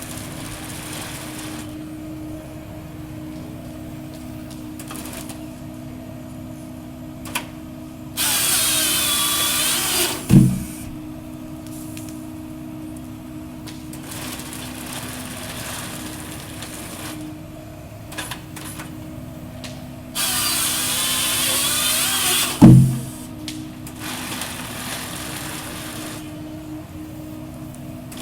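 A small excavator-mounted timber harvester running with a steady engine hum. Twice, for about two seconds each, the harvester head's hydraulic chainsaw cuts through a log with a loud whine, each cut ending in a sharp, heavy thump.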